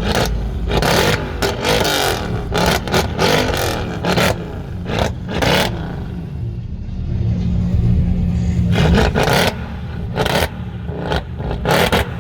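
Car engine revving repeatedly in short blips, with many short sharp cracks in between and a steadier held rev about two-thirds of the way through.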